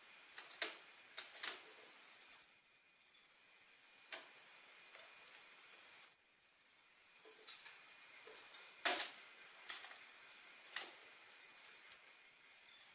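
Orange-headed thrush giving its thin, high 'ngecis' call three times, each a short whistle sliding down in pitch: the call used to lure males in. Under it run a steady high insect-like trill and a few sharp clicks.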